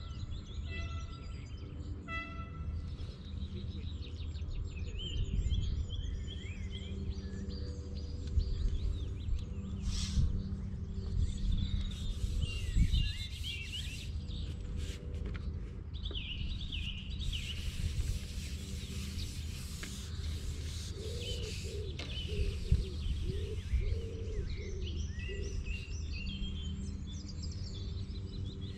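Songbirds singing and chirping, with calls coming thick and fast in the middle and again near the end, over a steady low hum.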